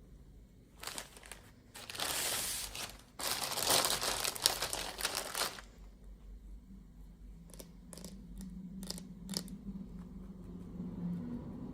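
Toy packaging being crinkled and torn open by hand, in two bursts: a short one about two seconds in and a longer one from about three to five and a half seconds in. A few light clicks and taps follow.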